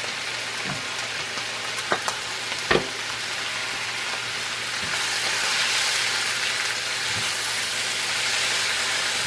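Shredded beef, onion, chile and tomato sizzling in a frying pan, with a couple of knocks about two seconds in. From about five seconds in the sizzle grows louder as the mixture is stirred.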